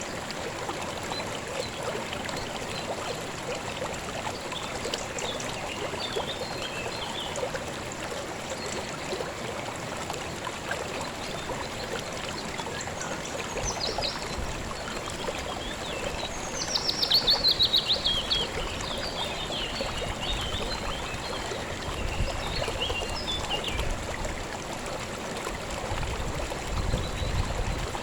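River water flowing in a steady babble, with small birds chirping now and then. A bit past halfway a bird sings a loud, fast trill that falls in pitch.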